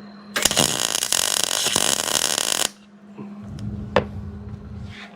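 Welding arc crackling steadily for about two seconds, then stopping abruptly, with a single sharp click near the end and a steady low hum underneath.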